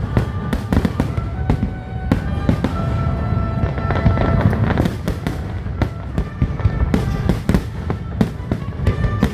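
Fireworks finale: a rapid, continuous barrage of bangs and booms over a dense rumble, with music playing along, its notes held over the explosions.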